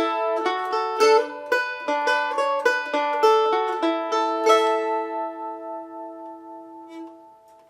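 Mandolin picking the last quick phrase of a tune, then striking a final chord about four and a half seconds in that rings on and fades away.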